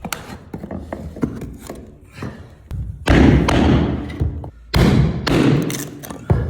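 Work on a parquet floor: a quick run of light knocks on wood, then two louder, longer stretches of rough noise starting about three and five seconds in.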